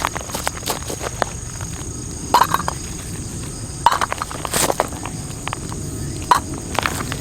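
Firewood burning in a fire pit, crackling and popping irregularly, with a few louder snaps. A steady high insect trill, typical of crickets, runs under it.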